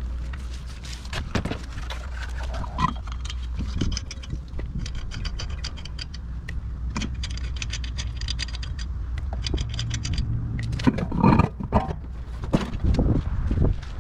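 Work on a car's wheels: runs of rapid, even clicking like a ratchet turning lug nuts, scattered metal clinks, and a few heavy knocks near the end, over a steady low hum.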